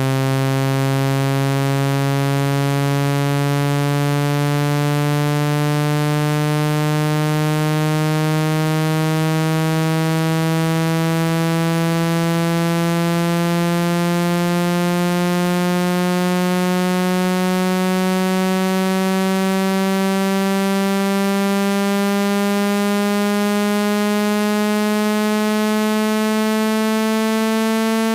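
Synthesized speaker-cleaning tone for shaking water out of a phone speaker: a loud, buzzy low tone, rich in overtones, slowly and evenly climbing in pitch.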